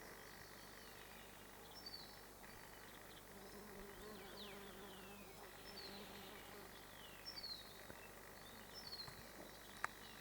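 Quiet natural ambience: a small bird gives short, high, falling chirps every couple of seconds over the faint low buzz of a flying insect. There is one sharp click near the end.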